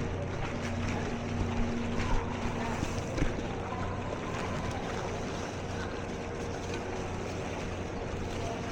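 A vehicle engine running steadily while the vehicle moves through floodwater, with water swishing around it. A few short knocks come about one and a half to three seconds in.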